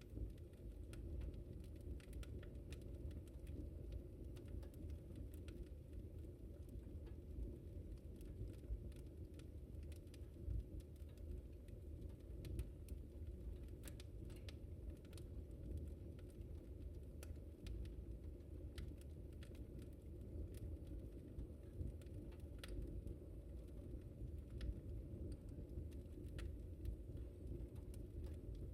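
Wood fire burning in a fireplace: a steady low rumble of the flames with irregular sharp crackles and pops, a few louder pops scattered through.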